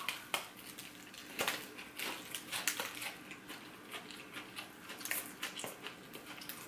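Close-up chewing of a bite of deep-fried Korean cheese corn dog: the crisp fried coating crunches with many short, irregular crackles.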